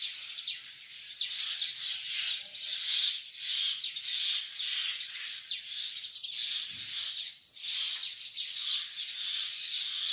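Birds calling in alarm, a dense run of repeated, overlapping high chirps, as parent birds mob a snake raiding their nest.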